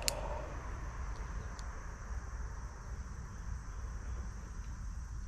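Quiet outdoor ambience: a steady low rumble with a faint, steady high insect-like hiss over it, and one sharp click just after the start.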